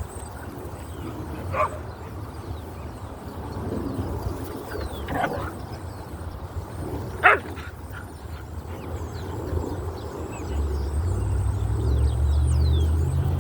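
A small dog barking three times, single short barks a few seconds apart, the third the loudest. Wind buffets the microphone underneath as a low rumble that grows stronger near the end.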